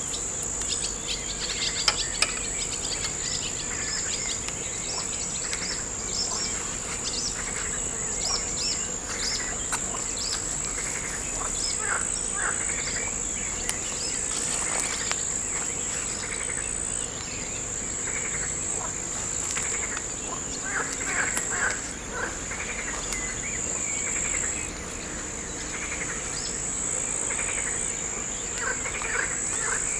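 Insects trilling in a steady high-pitched drone, with birds chirping on and off, and two brief clicks about two seconds in.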